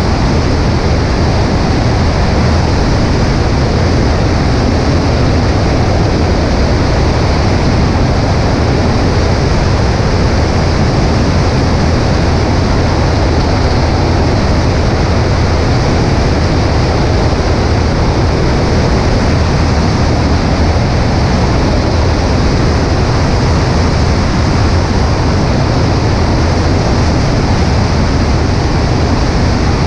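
Cessna 140A in cruising flight: a steady engine and propeller drone under heavy wind rush over a camera on the right wing, unchanging throughout.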